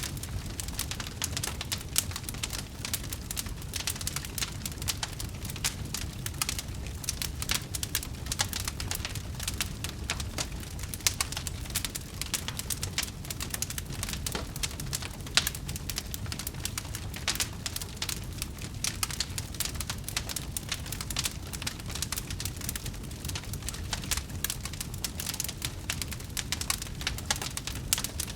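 Wood fire crackling and popping in quick, irregular snaps, a few sharper pops standing out, over a low steady rumble of the burning logs.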